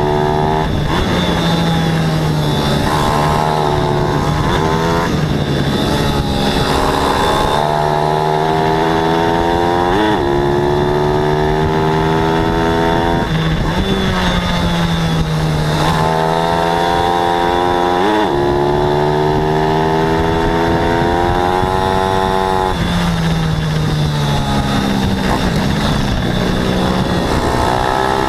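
A 14 hp pit bike's single-cylinder engine racing hard: the revs climb for a few seconds, then drop sharply, over and over, as the rider accelerates and shuts off or shifts.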